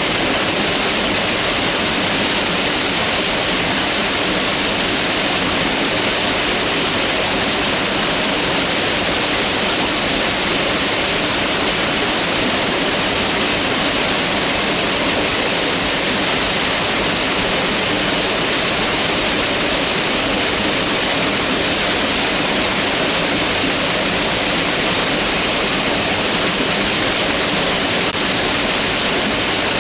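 Mountain river rushing over rocks, a steady, loud rush of water that does not change.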